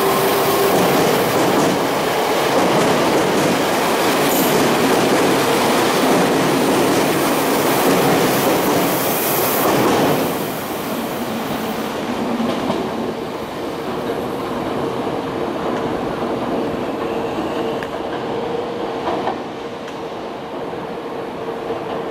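Electric commuter train accelerating away from the platform at close range, wheels clattering over the rail joints under a steady whine; the sound drops off about ten seconds in. After that a quieter rail rumble and the steady whine go on as another train approaches in the distance.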